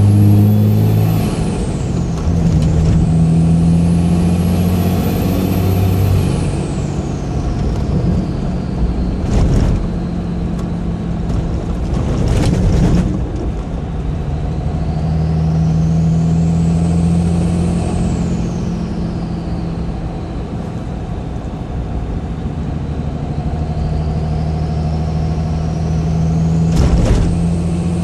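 Cummins turbo diesel's turbocharger whistling through an open Spectre aftermarket intake, heard from inside the cab of a 2006 Dodge Ram Mega Cab: the whistle rises high and falls back several times as the truck accelerates and eases off, over the engine's low drone. A few brief knocks.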